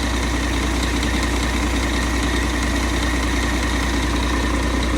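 Scania DC13 inline-six diesel with PDE unit injectors idling steadily on an engine stand, still cold, oil at about 23 °C, shortly after start-up.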